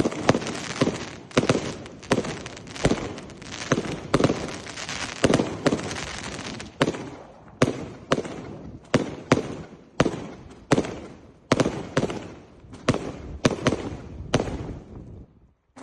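Ares God of War 224-shot firework cake firing a rapid barrage: sharp bangs about two a second, with crackle between them. The barrage dies away about a second before the end.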